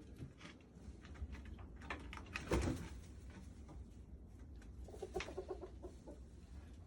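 Chickens clucking inside a coop, with scattered scratching clicks and a louder thump about two and a half seconds in, then a quick run of short clucks around five seconds.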